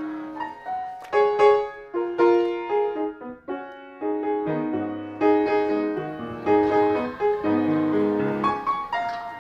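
Solo piano playing a melody over struck chords, with a brief lull about three and a half seconds in before the chords resume.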